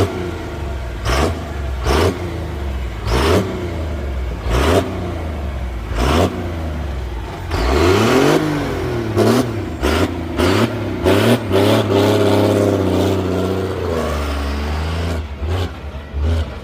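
Pulling truck's engine idling and being blipped repeatedly, with short sharp revs about every second or so, then revved up and held with the pitch rising and wavering for several seconds near the middle.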